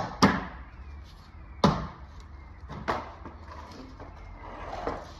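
Three sharp knocks about a second and a half apart, each with a short ringing tail, with fainter handling and scraping noises between them.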